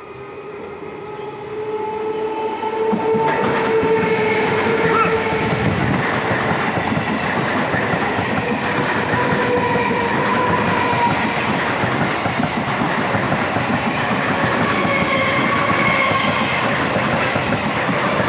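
Indian Railways EMU local train approaching and passing close by along the platform. It grows louder over the first three seconds, then holds steady as the coaches run past, with a faint pitched whine over the noise of the wheels.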